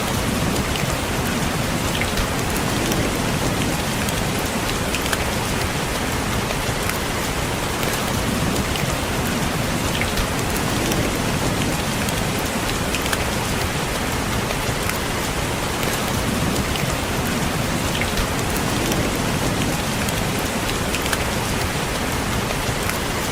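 Steady rain with individual drops tapping in scattered small ticks against the steady wash.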